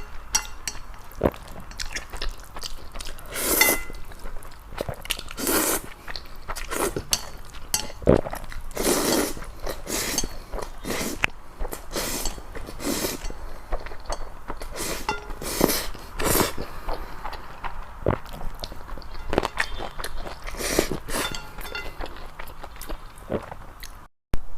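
Close-miked eating sounds: a person chewing and biting food, in irregular short bursts.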